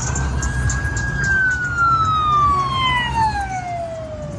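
Wailing siren: one long tone holds high, then slides slowly down in pitch over about three seconds, starting to rise again at the end.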